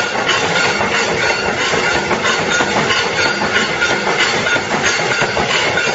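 C-frame mechanical punch press with a CNC feed table punching sheet metal in quick succession, a steady clatter of repeated strokes.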